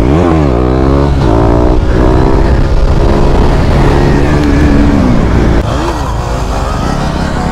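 KTM Duke 390 single-cylinder engine revving under way. The pitch dips and climbs sharply just after the start and again about six seconds in, with steadier pulling in between.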